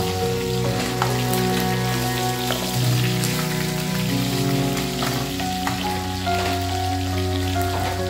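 Beef sizzling as it fries in a large aluminium pot, stirred with a metal spoon that clinks against the pot a few times, under instrumental background music.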